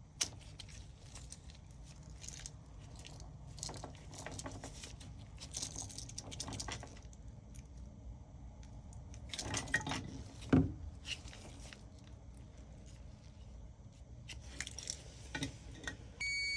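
Small clicks, taps and rustles of small parts and multimeter probes being handled, with one sharper click about ten seconds in. A multimeter's steady continuity beep starts just before the end.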